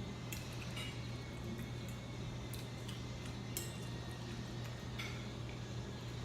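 Cutlery clinking and tapping against a plate: a handful of light, irregular clicks over a steady low hum.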